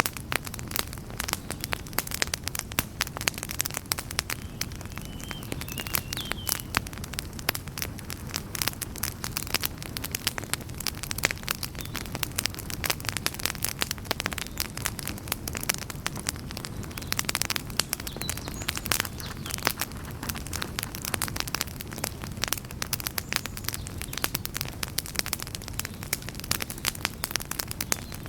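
Wood campfire crackling and popping in dense, irregular snaps over a steady low rumble of the burning fire.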